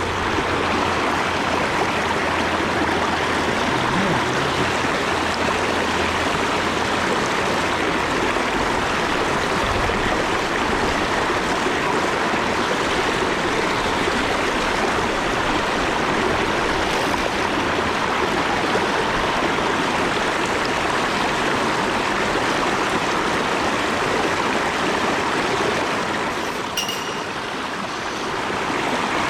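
Mountain stream water rushing steadily over rocks, with one short click near the end.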